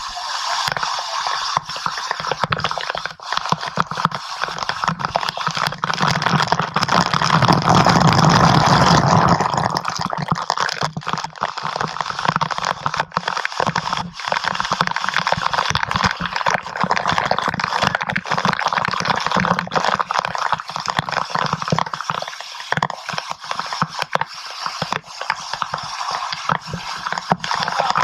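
Rushing water, a dense steady noise, with many short knocks and rustles, swelling louder for a few seconds partway through.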